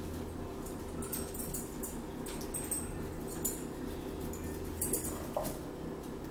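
Close-up chewing and wet mouth smacking from someone eating cornbread, a scatter of short irregular clicks over a steady low hum.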